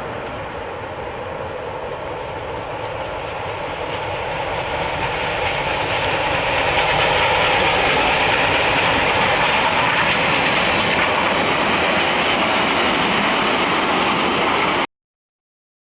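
A train running by, growing louder over several seconds and then holding steady, until the sound cuts off abruptly near the end.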